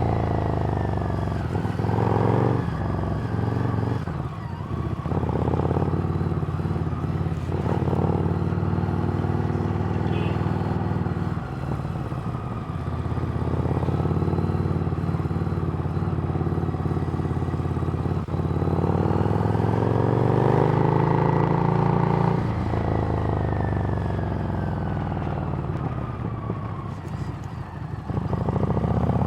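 Harley-Davidson Street Rod's V-twin engine through a Screamin' Eagle exhaust, under way with the revs rising and falling as it pulls and eases off. The longest climb comes about 19 seconds in and drops away after about 22 seconds.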